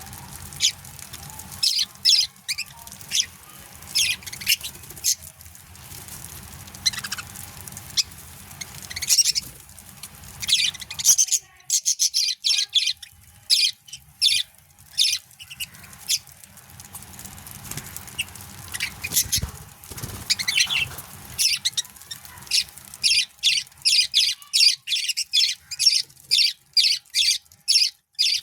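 Budgerigars chirping and chattering: short, high chirps, scattered at first and then coming thick and fast, several a second, in the second half.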